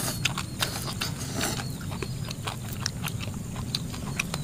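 Close mouth sounds of eating: irregular crunchy clicks of chewing crisp fried fish, its bones fried crispy, and fresh stir-fried water spinach.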